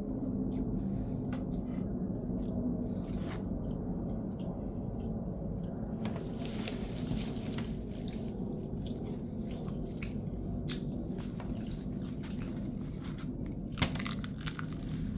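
Someone chewing and biting crunchy food close to the microphone: wet chewing with crisp crackles, which come thickest about halfway through and again near the end.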